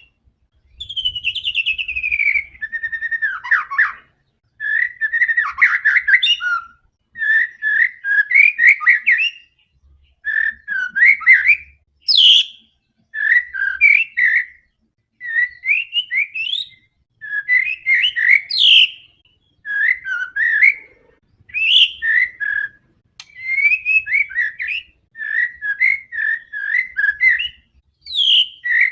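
A white-rumped shama (murai batu) singing without let-up in the loud, rapid 'gacor' manner. It delivers quick phrases of whistles, trills and chirps one after another, each lasting about a second with short pauses between, and some notes sweep up high.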